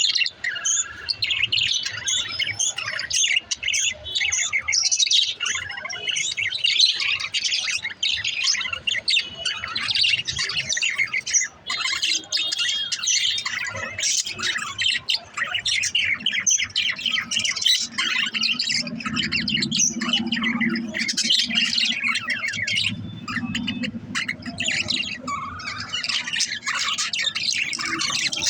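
Budgerigars chattering and chirping without pause, many quick warbling calls overlapping. A low steady hum sits underneath from about two-thirds of the way in.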